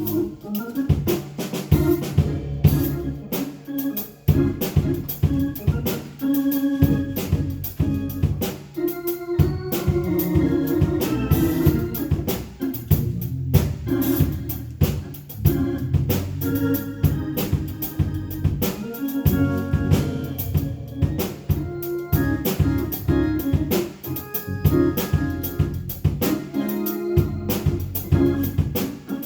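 Organ music with a drum kit playing along, a live church band accompanying the collection of the offering.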